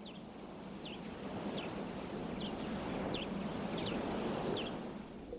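Outdoor ambience: a rushing noise that swells through the middle and fades near the end, with a bird giving a short high chirp about every three quarters of a second.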